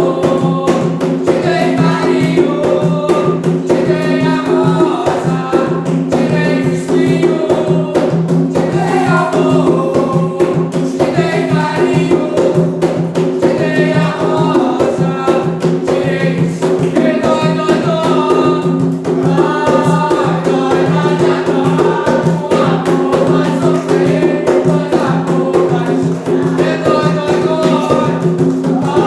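Voices singing an Umbanda ponto, a ritual chant, over steady rapid hand percussion.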